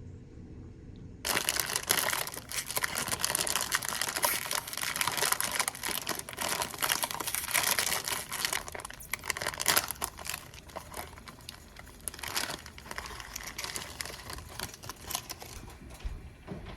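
Continuous crinkling and rustling of handled material, a dense run of fine crackles that starts abruptly about a second in.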